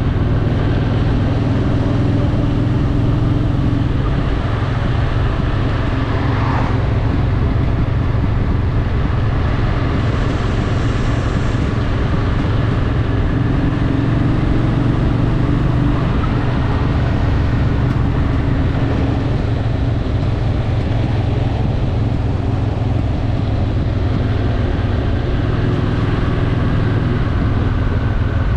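Honda Shadow VT750's V-twin engine running at a steady cruise, with wind and road noise around it.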